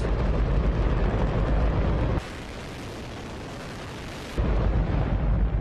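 Hydrogen-oxygen rocket engine firing in a static test: a continuous, very loud rumbling rush with deep low end. For about two seconds in the middle it drops to a quieter, thinner hiss, then comes back at full strength.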